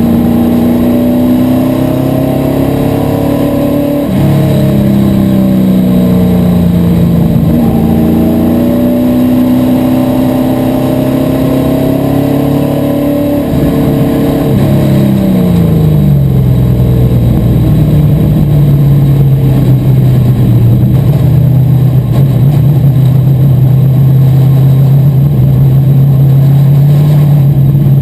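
Asphalt modified race car's V8 engine running loud and close, its revs swinging down and back up twice in the first half as the car lifts and gets back on the throttle, then holding lower and steadier with a slow climb.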